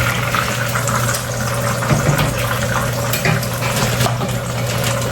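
Catfish deep-frying in hot oil, a steady sizzle full of fine crackles, over a steady low hum.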